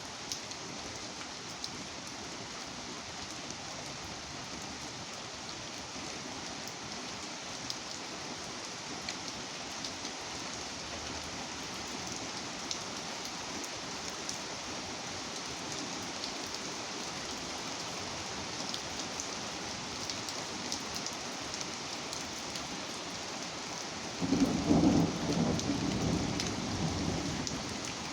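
Steady rain falling, with scattered ticks of individual drops. About 24 seconds in, a louder low rumble rises over the rain and lasts about three seconds.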